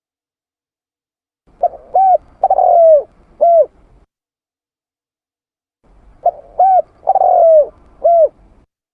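Spotted dove cooing: two identical four-note phrases a few seconds apart. Each has two short coos, a longer coo falling in pitch, and a short final coo.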